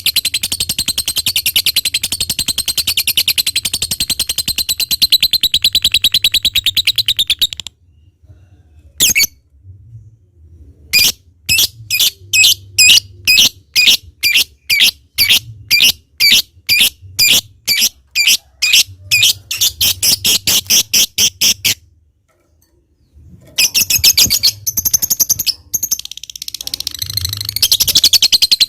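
Lovebird singing: a long, rapid, high-pitched cackling trill, the 'ngekek' song, breaks off after several seconds; a run of separate sharp chirps follows at about two a second, then the rapid trill starts again near the end.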